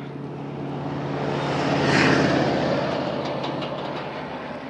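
A truck driving past on the road, its engine and tyre noise swelling to a peak about two seconds in and then fading away.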